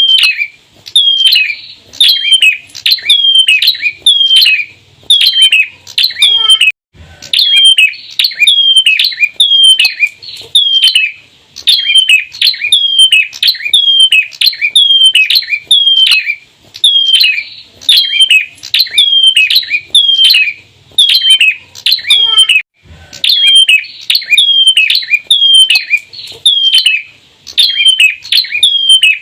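Bar-winged prinia (ciblek) calling loudly and persistently: sharp, curving chirps repeated about two a second in long runs, broken by two short pauses.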